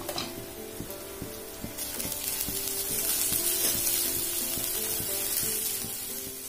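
Green ground paste frying in hot oil on sautéed onions in a stainless steel kadhai, sizzling as it is stirred with a spatula. The sizzle grows louder from about two seconds in, then eases near the end.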